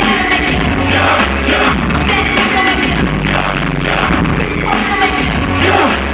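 Live pop concert music: a song with a steady driving beat and a singing voice, played loud over the hall sound system.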